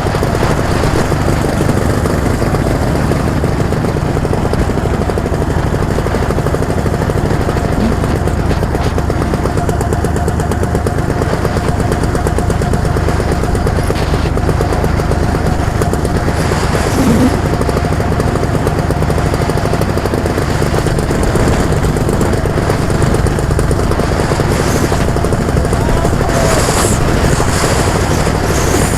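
A vehicle engine running steadily with a dense low rumble.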